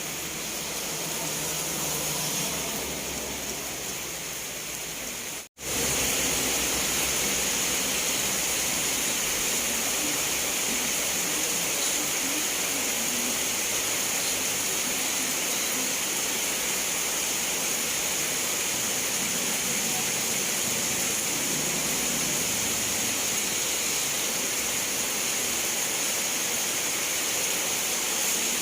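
Steady hiss of falling rain. About five seconds in it cuts out for an instant and comes back a little louder, as at a splice between two rain recordings.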